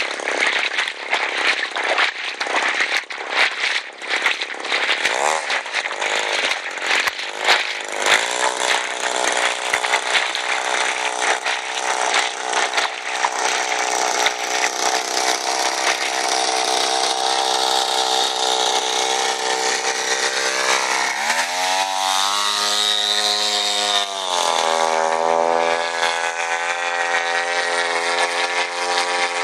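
62cc two-stroke chainsaw engine of an RC airboat, driving an 18x12 propeller. It runs unevenly at first, then settles into a steady run. About two-thirds of the way through it revs up sharply, holds for a few seconds, then drops back to its steady speed.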